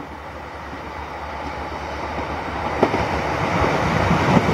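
Class 150 Sprinter diesel multiple unit approaching and passing beneath, its diesel engine hum and rail rumble growing steadily louder. A sharp click a little under three seconds in, then wheels knocking over the track near the end as it goes underneath.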